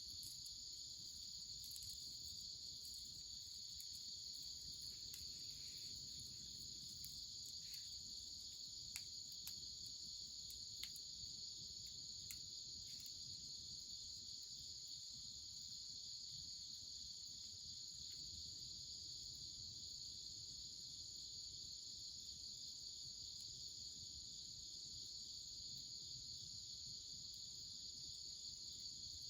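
Steady, high-pitched chorus of insects chirring without a break, with a few faint clicks about a third of the way in.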